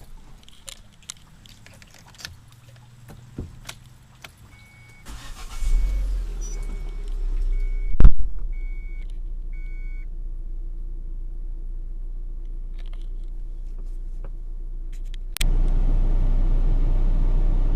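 Proton Saga VVT being started: small clicks and key jingles, then the engine cranks and catches with a short loud rev about eight seconds in while the dashboard chime beeps several times, and it settles into a steady idle. About fifteen seconds in, a louder steady rush suddenly sets in.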